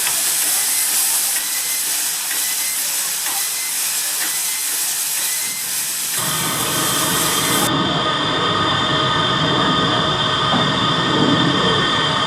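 Steam locomotive hissing steam. About six seconds in, the hiss gives way suddenly to the steady low rumble of a train running.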